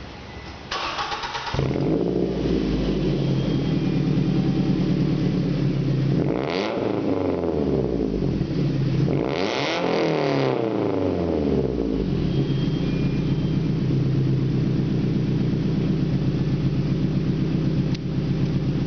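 2005 Scion tC's 2.4-litre four-cylinder engine, breathing through a TRD axle-back exhaust with the resonator deleted and a straight pipe in its place, cranks and starts about a second in, then idles loudly. It is revved twice, each rev rising and falling back to idle, and then idles again.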